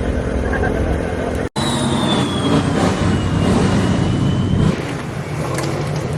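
A car engine running, with voices in the background. The sound drops out for an instant about a second and a half in, then a thin high whine slowly falls in pitch for about three seconds.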